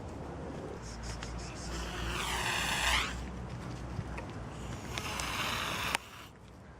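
A cat's drawn-out meow about two seconds in, its pitch dipping and rising again, then a hiss about five seconds in that cuts off suddenly, over a low steady rumble.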